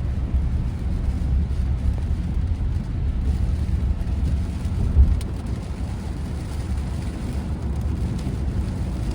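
Steady low road rumble and tyre noise on a wet road, with rain, heard inside the cabin of a Tesla Model Y, an electric car with no engine sound. A single short thump comes about five seconds in.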